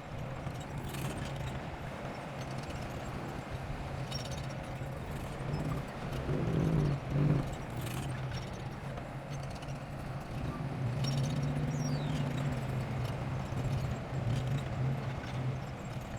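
Bulldozer's diesel engine running steadily, with scattered clanks from its steel tracks; the engine swells louder about six to seven seconds in.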